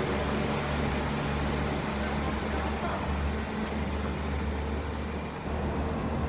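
A vehicle engine runs steadily as a low drone under a noisy background, with no sudden events.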